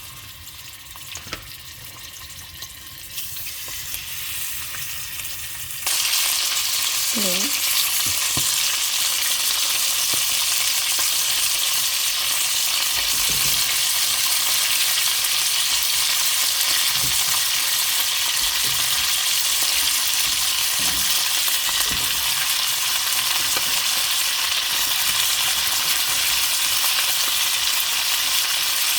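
Food sizzling in hot oil in a pan, a steady crackling hiss that suddenly gets much louder about six seconds in, with a few soft knocks as it is stirred.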